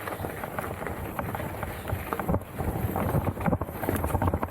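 Mountain bike rolling over a rough dirt trail: tyre rumble with frame and chain rattling at each bump, and wind on the microphone.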